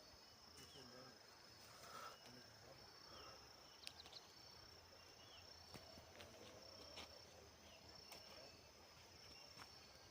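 Faint insects trilling in the background: a high, thin buzz that keeps stopping and starting, with a few soft clicks.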